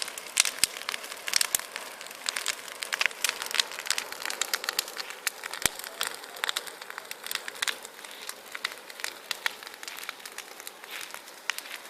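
Large bonfire burning: a steady hiss dotted with dense, irregular crackles and snaps.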